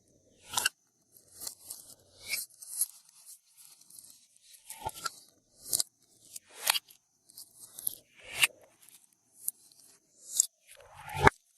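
Glossy slime being mixed and pressed by hand, giving irregular sticky clicks and crackling pops of trapped air.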